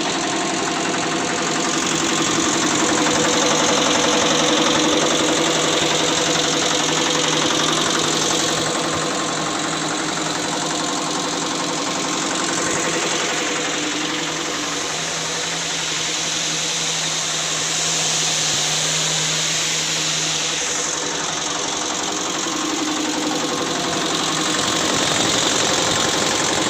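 Diesel engine running steadily, driving a high-pressure jet pump rated at 300 to 350 bar, with a strong hiss that swells and eases a few times.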